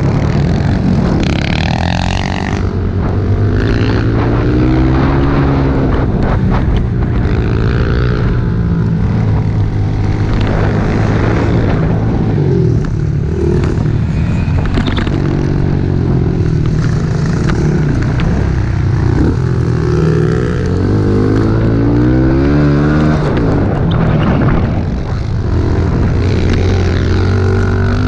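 Small pit bike engines being ridden hard, revving up and dropping back over and over as the throttle opens and closes, with more than one engine heard at times.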